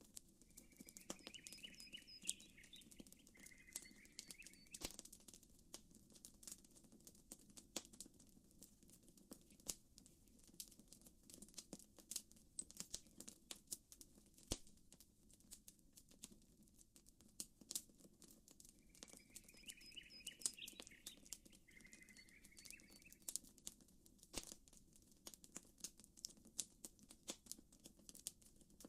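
Quiet campfire crackling, with frequent sharp pops, over a soft steady wash of gentle water ripples. A short bird call chirps twice, about a second in and again around nineteen seconds.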